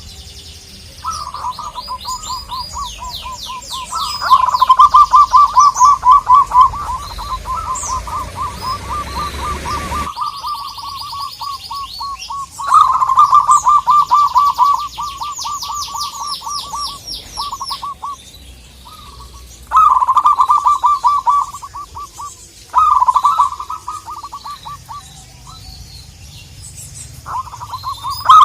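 Zebra dove (perkutut) singing its rapid, staccato cooing trill in several bouts, each a fast run of short notes, with pauses between. Fainter, higher chirping from other small birds comes in now and then.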